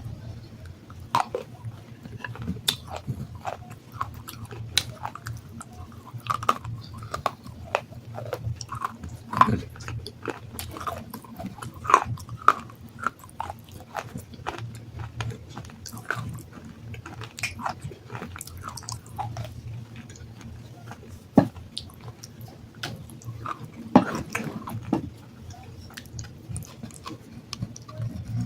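Close-up biting and chewing of water-soaked black sandstone: a run of sharp, gritty crunches and cracks, with a few louder snaps about 12, 21 and 24 seconds in.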